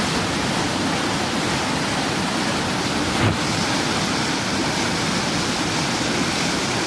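Floodwater from an overflowing pond rushing through a culvert tunnel under a road bridge, a steady roar of fast water like rapids, with a brief knock about three seconds in.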